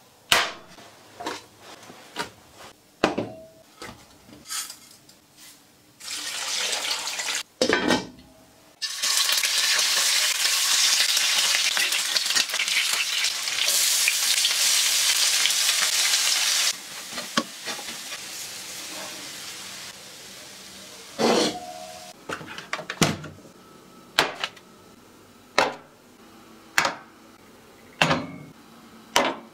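Lamb chops frying in oil in a pan: a loud steady sizzle for several seconds in the middle, dropping to a quieter sizzle. Sharp knocks and taps come before it, and a run of crisp clicks about once a second near the end.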